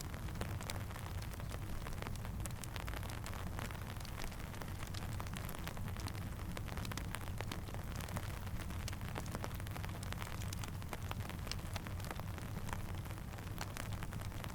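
Steady rain falling in a wide, even hiss, with a campfire crackling in many scattered sharp pops throughout, over a low rumble.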